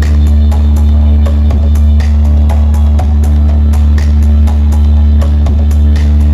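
Loud music with a drum kit played through a big sound system's subwoofer and speaker boxes during a sound check, with a heavy bass note held throughout.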